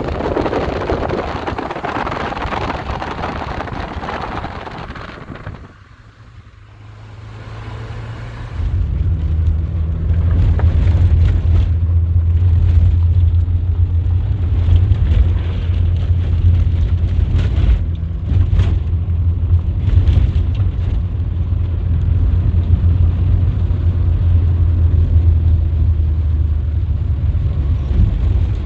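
A rushing noise that dies away about six seconds in, then a motor vehicle's engine running with a steady low hum from about nine seconds on.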